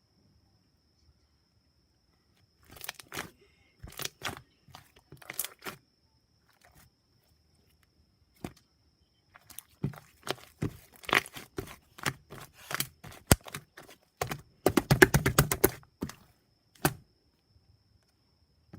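Slime being pressed and poked, making sharp popping clicks as trapped air bursts. The pops come singly at first, then a rapid run of crackling pops about fifteen seconds in.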